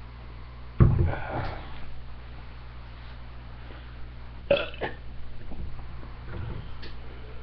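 A man burping: a loud burp about a second in, another about four and a half seconds in, and a fainter one near six and a half seconds.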